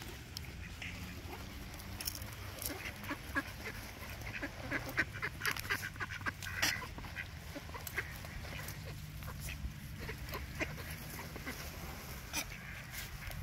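Many short bird calls in quick succession, loudest about halfway through, over a low steady rumble.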